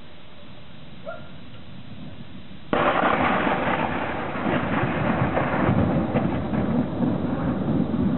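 Thunder: a sudden loud clap a little under three seconds in, breaking out of a steady low hiss and then rumbling on unevenly.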